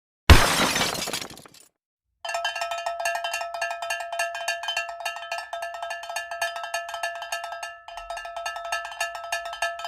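A sudden loud crash that dies away over about a second, then a fast, steady metallic ringing made of rapid strikes, several a second, on one fixed set of bell-like tones, breaking off briefly about eight seconds in.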